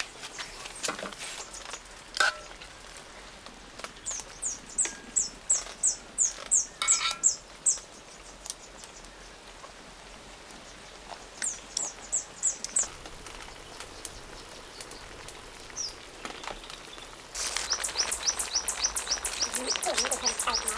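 A small bird calling in runs of quick, high, falling chirps, about three a second, three times over. Near the end a steady sizzling hiss from the wok comes in under the chirps.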